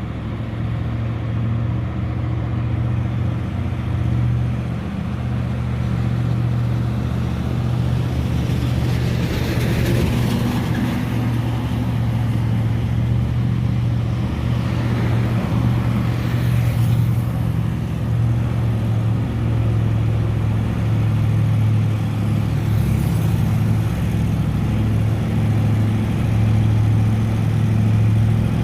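A heavy truck engine running steadily as it climbs a steep grade, a constant low drone. Louder swells of engine and road noise come about ten and sixteen seconds in.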